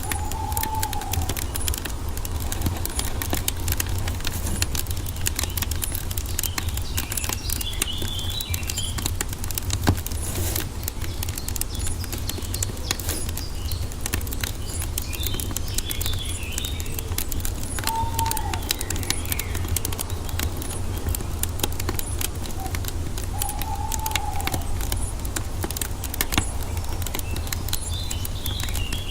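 Wood fire crackling steadily with many small pops and one louder pop about ten seconds in, over a low rumble. Birds call now and then: a short arching lower call three times and higher chirps in a few bursts.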